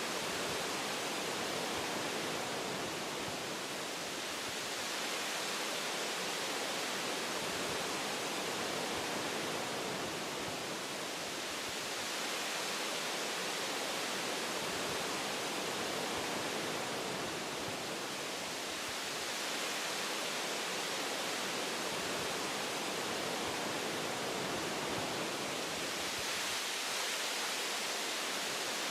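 Wind rushing through forest tree branches: a dense, even hiss that eases and swells slightly every several seconds.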